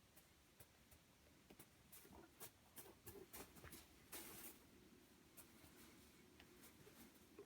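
Faint, quick tapping and scratching of a kitten's paws and claws scrabbling on the floor as it chases a laser dot, with a short scratchy scuffle about four seconds in.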